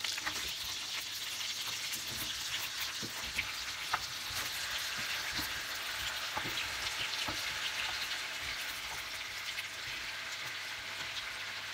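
Potato slices sizzling as they are laid one by one into hot melted dairy-free spread in a pan: a steady frying hiss with small scattered taps as slices go in.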